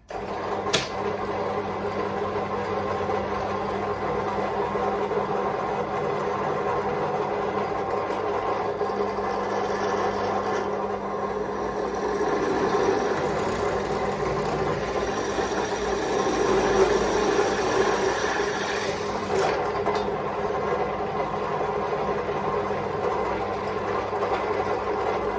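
Small electric motor running steadily, a power tool at work on the bodywork, with a sharp click about a second in.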